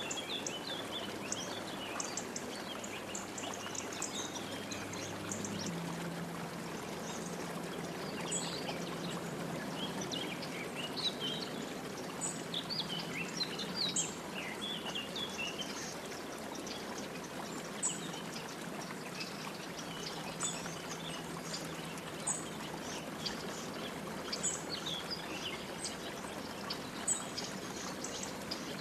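Several wild birds chirping and calling in short, scattered notes over a steady, even rushing background like running water.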